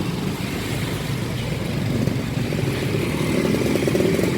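Busy street traffic: a steady rumble of passing motorcycle and car engines and tyres, swelling louder in the second half as vehicles pass close by.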